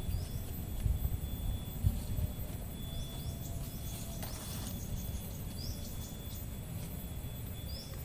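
Forest ambience: a low wind rumble under a steady high insect drone, with a few short rising bird chirps and a brief hiss about four seconds in.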